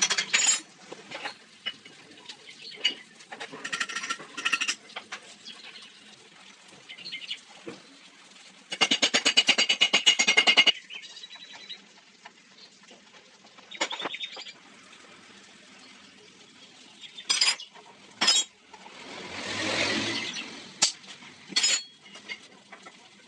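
Metal tools and engine parts clinking and knocking during hand reassembly of a Honda CD 70 cylinder head, with a run of rapid clicks about nine seconds in and a brief swelling rush of noise near the end.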